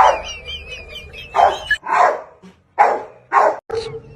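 A dog barking: about five short barks spaced out over a few seconds, with a high, wavering whine in the first second.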